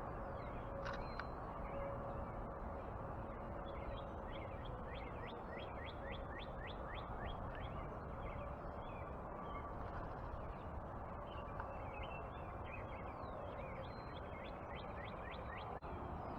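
Backyard birds chirping and calling: many short, quick-falling notes, with a fast run of repeated chirps a few seconds in and another near the end, over a steady outdoor hiss.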